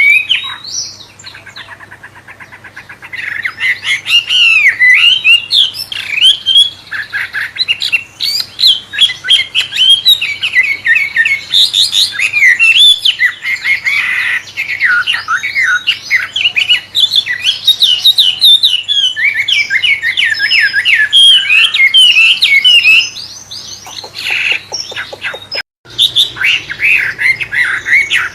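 A wambe songbird singing a fast, varied song of whistles and chirps, in a style likened to a white-rumped shama (murai). The song breaks off briefly twice, and there is a sudden cut just before the end.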